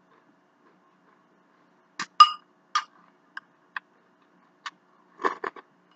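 Eating sounds: a scattered run of sharp taps and clicks, the loudest ringing briefly as a utensil strikes a dish.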